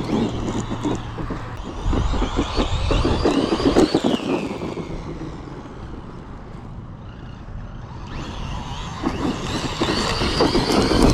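Traxxas Maxx V2 RC monster truck running on its Castle 1515 brushless motor: the motor and drivetrain whine rises and falls with the throttle, over the rumble of the tyres on the dirt. The truck fades as it moves off about midway and comes back louder near the end. The owner suspects the gear mesh was knocked out in a crash, and the plastic spur gear is wearing its teeth down.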